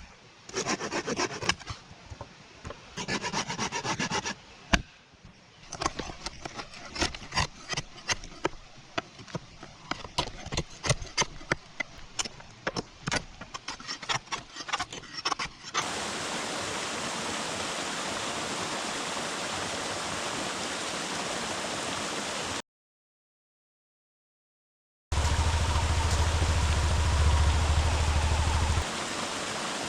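Wet firewood being handled and broken: a long run of irregular sharp cracks, snaps and knocks. About halfway through it gives way to a steady rushing noise, with a heavy low rumble for a few seconds near the end.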